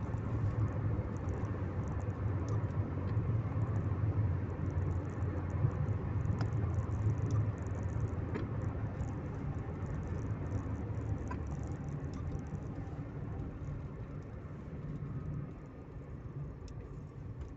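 Steady low rumble of a car's engine and road noise heard inside the cabin while driving, growing quieter over the last few seconds.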